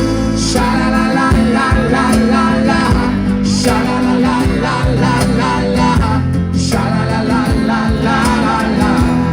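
A small live band playing a sing-along song: guitar with singing over it.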